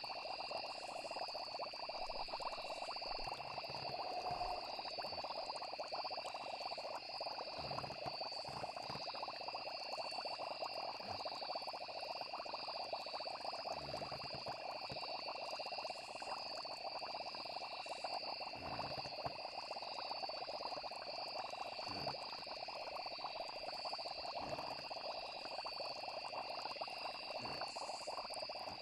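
Layered night ambience: a steady chorus of frogs and insects trilling without a break, over a dense bubbling layer with occasional low plops.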